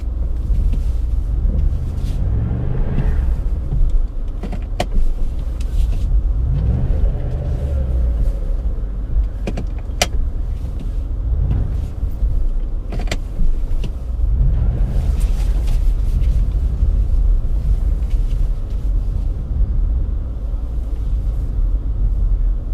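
2009 Chevrolet Impala SS with its V8 running as the car drives, a steady low rumble of engine and road noise with a few sharp clicks.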